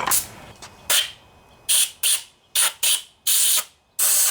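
Compressed-air blow gun fired in about eight short bursts of hiss, blowing debris out of the bolt holes in a lawnmower's engine cover.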